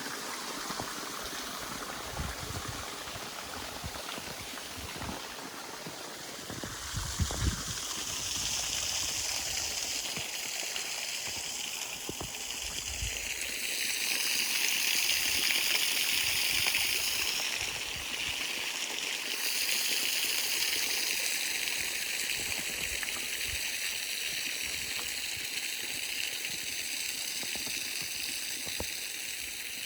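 Steady rush of running water from a partly frozen waterfall and its creek, growing louder and brighter about halfway through. A few low thumps come about seven seconds in.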